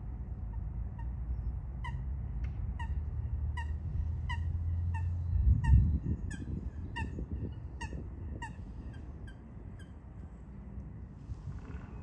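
Eurasian coot giving a series of short, nasal, honking calls, about one every 0.7 seconds, fading out after about nine seconds. A low rumble runs underneath, with a thump about six seconds in.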